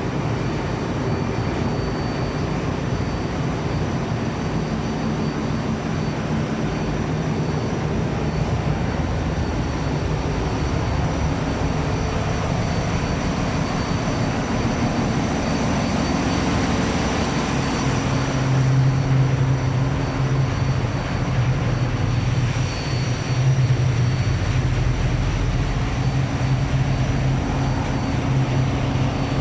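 Engine-room machinery of a vessel underway running steadily: a loud, continuous roar with a deep hum and thin high-pitched whines. The low hum grows stronger in the second half.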